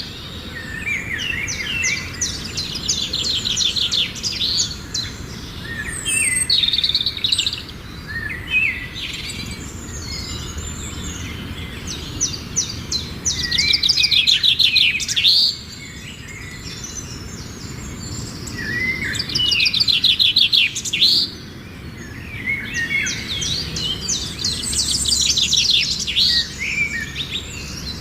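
Songbird singing: repeated phrases of rapid trills mixed with chirps, each phrase a few seconds long with short pauses between.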